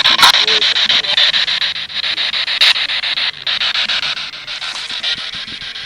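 Radio static from a ghost-hunting spirit box sweeping through channels: a loud, rapidly chopped hiss, with a couple of sharp clicks.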